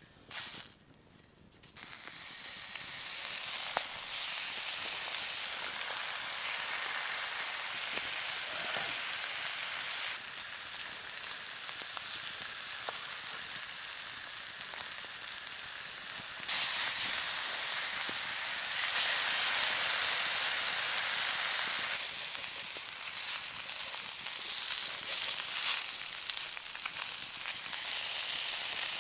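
Sausages frying in a cast-iron skillet over a campfire: a steady sizzle that starts after a short quiet moment and gets louder about halfway through.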